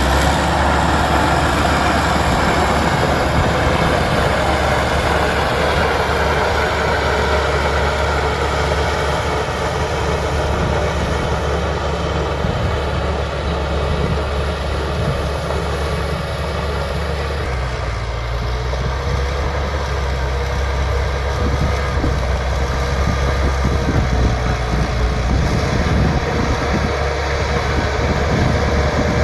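A bulldozer's diesel engine running steadily, with a low, constant drone. Its low note shifts a little past the halfway point.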